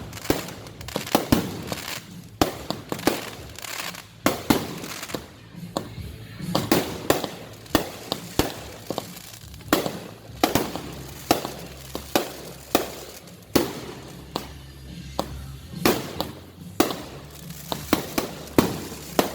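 Fireworks going off in a rapid, irregular barrage of sharp bangs and crackles, two or three a second, each followed by a brief echo.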